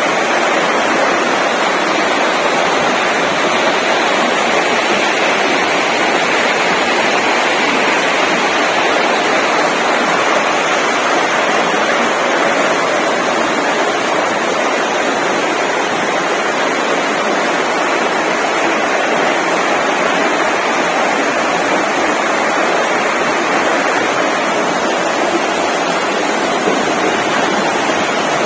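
Steady rushing of flowing water, unbroken and unchanging throughout.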